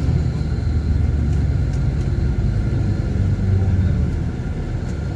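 Steady low rumble of a car driving along a road, engine and tyre noise together.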